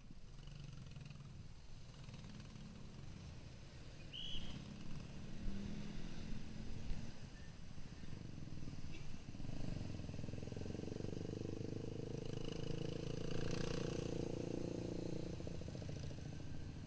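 Motorcycle engine running at low speed in traffic, growing louder a little past halfway as a heavier, steadier engine note comes in. A brief high chirp sounds about a quarter of the way in.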